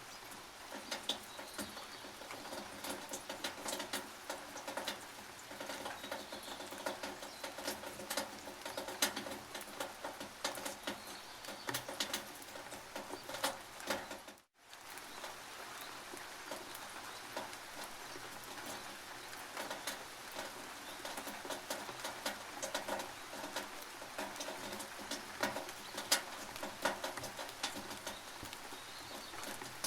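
Rain dripping and pattering on a tin roof: a steady wash with many irregular, sharp drip ticks. The sound cuts out for an instant about halfway through.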